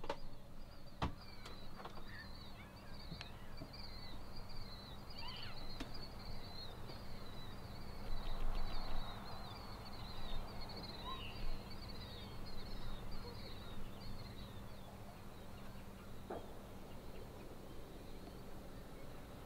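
Birds chirping in quick, high, repeated notes for most of the stretch before fading out, over a faint steady low hum. There are a few light clicks and a brief louder rush of noise about halfway through.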